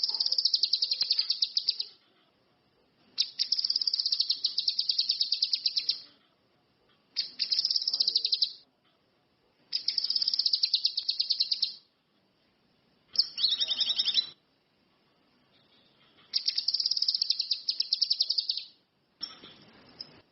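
Cucak kinoi (ranti mas) songbird singing in repeated bursts of fast, high trilling, about six of them, each one to three seconds long with short pauses between.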